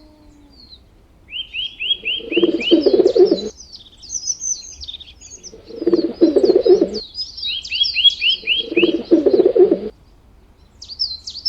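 Songbirds chirping, with a quick run of about five falling whistled notes twice. Three times, about a second long each, a lower rough call sounds under them.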